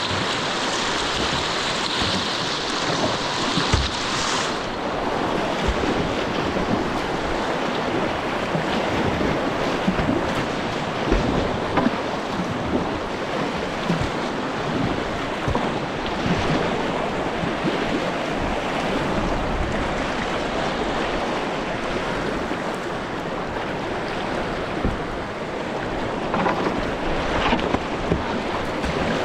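River water rushing and splashing around a kayak, with wind buffeting the microphone. A brighter hiss stops about four and a half seconds in, and small splashes and knocks come through after it.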